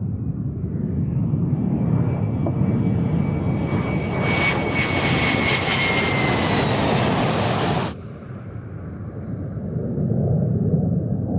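F-16 fighter jet's engine: a deep rumble with a hissing whine that builds and a high tone that slides slowly down in pitch as the jet passes. The sound cuts off suddenly about eight seconds in, leaving a quieter rumble that swells again near the end.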